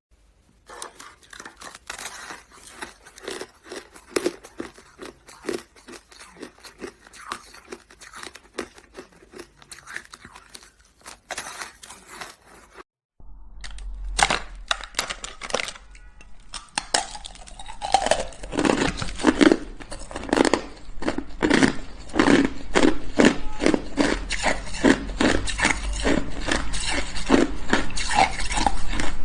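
Hard shaved ice being chewed close up, a dense run of crisp, rapid crunches. After a short break about 13 seconds in, the crunching comes louder and heavier.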